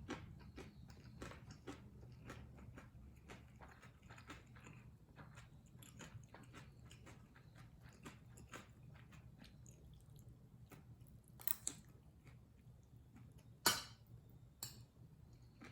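A person chewing a mouthful of kimchi fried rice close to the microphone, a steady run of small wet mouth clicks. A few sharper, louder clicks come near the end.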